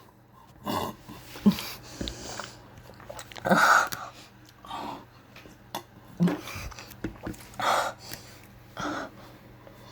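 A person tasting a drink from a bottle: short sips, swallows and breathy exhalations, coming in bursts a second or two apart, the loudest about three and a half seconds in.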